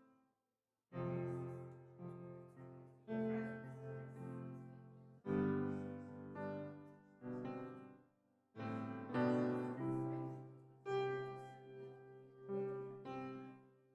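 Slow piano chords, each struck and left to ring and fade, one every second or two, starting about a second in.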